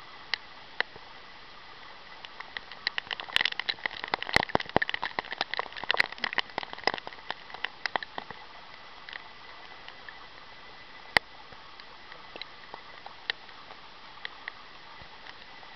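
Heavy rain falling with a steady hiss, with sharp drop clicks close to the microphone. The clicks come thick and fast from about two to eight seconds in, then only now and then.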